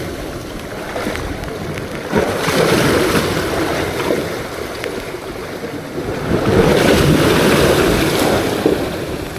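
Sea waves surging and washing in, with wind buffeting the microphone; the rush of water swells up twice, about two seconds in and again near seven seconds.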